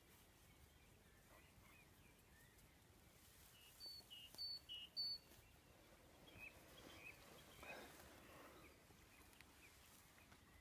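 Quiet countryside ambience with a wild songbird calling faintly: a few groups of short, high chirps about four to five seconds in, then softer chirps a little later.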